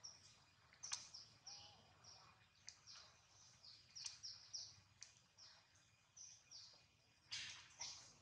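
Faint, repeated high chirping of a bird: short notes that drop in pitch, about two a second, with a few sharp clicks among them and a short noisy burst near the end.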